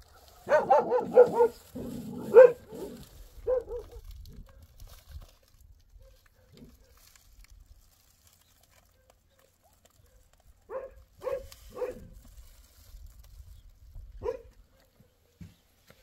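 A dog barking in short, separate barks: a quick run of barks in the first few seconds, a pause, then three barks about half a second apart and one more a little later.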